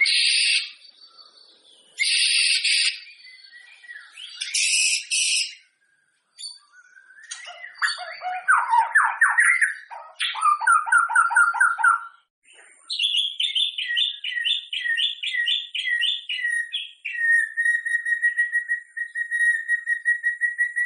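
White-rumped shama (murai batu) singing a varied song: short buzzy phrases, quick trills and a fast run of repeated sweeping notes, then one long steady whistle held for the last few seconds.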